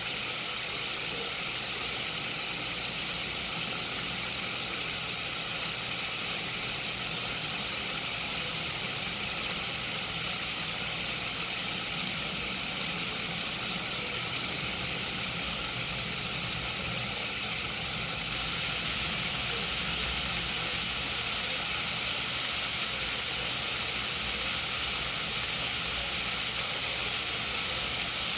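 Mustard-coated chicken wings deep-frying in hot oil in a cast-iron skillet: a steady sizzle, a little louder from about two-thirds of the way through.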